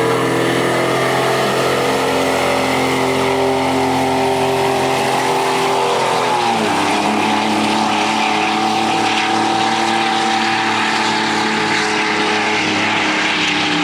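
Pulling semi truck's overfueled Detroit Diesel engine running at full throttle under load, with a turbo whine. About six and a half seconds in the engine pitch drops sharply, as the Allison automatic locks up its torque converter, and then it runs on at a steady lower pitch.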